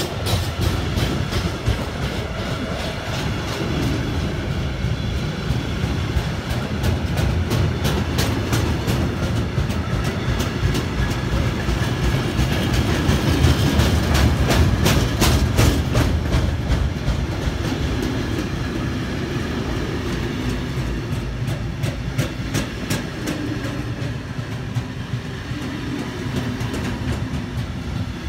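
Freight train wagons rolling past close by: a steady heavy rumble of steel wheels on rail, with groups of clickety-clack as wheelsets pass every several seconds.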